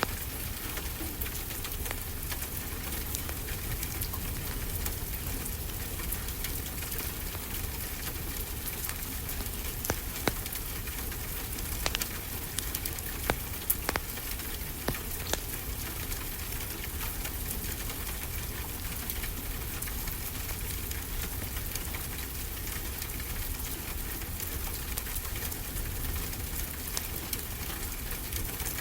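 Steady rain hissing, mixed with a wood fire crackling, over a low steady rumble. A few sharp pops from the fire stand out about ten to fifteen seconds in.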